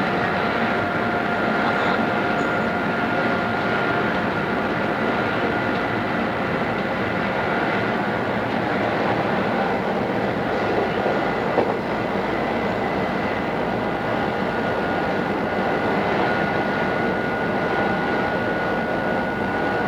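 Odakyu 2600 series electric train running at a steady speed, heard from inside the car: a steady rumble of wheels on track with a steady whine held at one pitch. A single brief knock comes a little past halfway.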